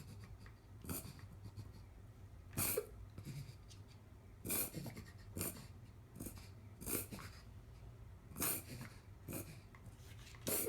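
A dog reverse sneezing: a string of short, forceful pig-like snorts through the nose, one every second or so. A reverse sneeze like this is a spasm that a vet judged needs no treatment unless it happens very often.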